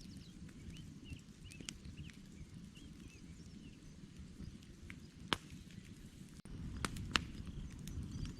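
Wood campfire crackling, with a low steady rumble and scattered sharp pops that grow more frequent after about five seconds. Short bird chirps sound in the first few seconds.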